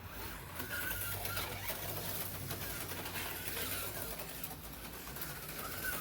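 A bird calling briefly, about a second in and again near the end, over a steady low hum.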